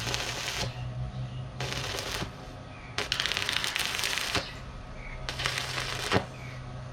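Four short bursts of sputtering crackle, each up to about a second and a half long, typical of tack-welding the steel sheet of a small boat hull, over a steady low electrical hum. A sharp knock comes near the end.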